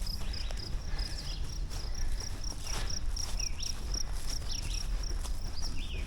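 Cricket chirping steadily, a high chirp repeated about four times a second, over a hiker's footsteps on a forest trail. A few short falling whistles are also heard.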